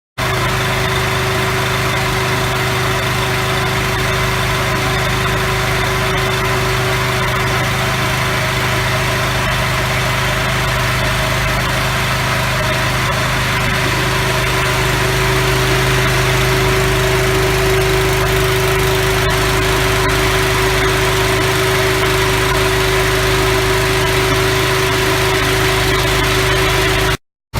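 A machine's motor or engine running steadily with an even, unchanging hum. It starts abruptly and cuts out briefly near the end.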